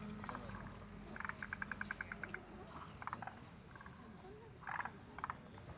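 Frogs calling in rapid pulsed croaks. The longest croak, a fast rattle of about ten pulses a second, comes a little over a second in, with shorter croaks near three and five seconds.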